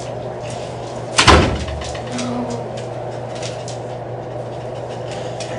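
A door slams shut about a second in: one loud bang with a brief ringing decay, over a steady low hum.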